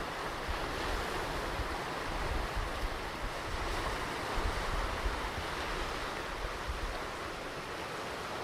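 Ocean surf washing steadily onto a beach, with a low fluttering rumble of wind on the microphone.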